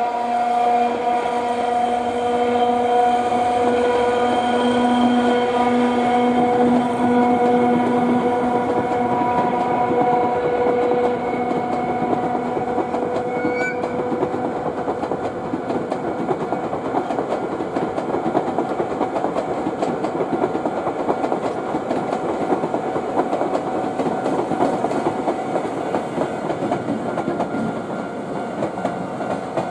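Chichibu Railway electric locomotive hauling a train of new passenger cars past: a steady humming tone with overtones for the first ten seconds or so, then the rumble and clickety-clack of the cars' wheels rolling over the rail joints.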